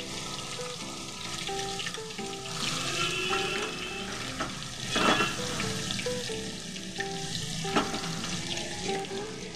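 Hot mustard oil sizzling in a kadai around potato wedges, spice paste and turmeric, with a few sharp clicks, the loudest about five seconds in, over soft background music.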